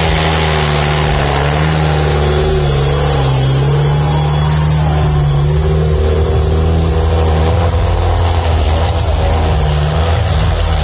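Tractor diesel engine running hard under heavy pulling load. It is loud and continuous, and its pitch dips slightly and recovers.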